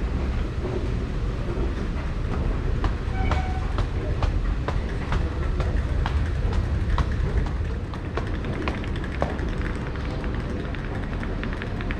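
Train running on rails: a steady low rumble with many sharp clicks of wheels over the track, and a brief squeal about three seconds in.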